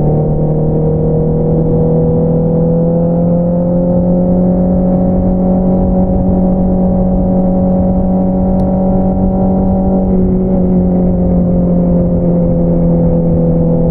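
2022 Honda CBR650R's inline-four engine through an Akrapovič single-outlet exhaust, running steadily on the move. Its note rises slowly over the first few seconds, holds, then drops slightly about ten seconds in.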